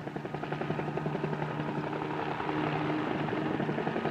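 Helicopter in flight: a rapid, even rotor chop over a steady engine hum, slowly getting louder. It is heard on an old 16mm film soundtrack.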